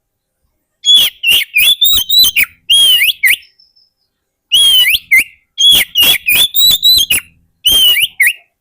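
Oriental magpie-robin (kacer) singing: loud, rapid runs of clear whistled notes that sweep up and down, in three or four bursts broken by short pauses, starting about a second in.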